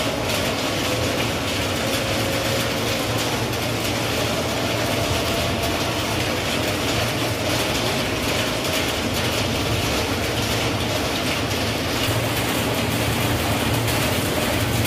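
Electric commuter train pulling slowly into a station platform: a steady, even running noise with a low hum and a faint held whine.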